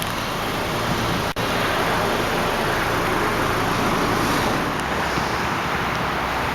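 2010 Hyundai Elantra Touring's 2.0-litre inline four-cylinder idling steadily, mixed with a steady outdoor hiss, with a brief dropout about a second in.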